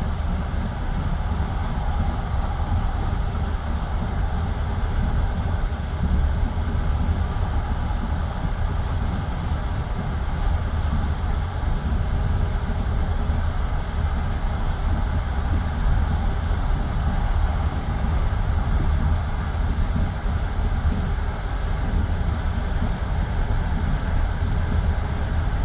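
Passenger railway carriage running at speed, heard from inside: a steady rumble of the wheels on the rails with a constant low roar.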